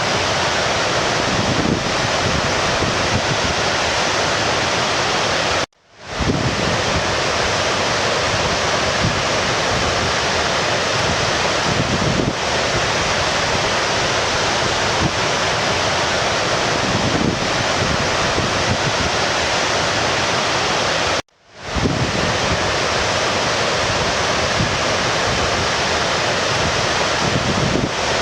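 Stream water rushing steadily. It cuts out twice, about six and about twenty-one seconds in, and each time swells back within a moment.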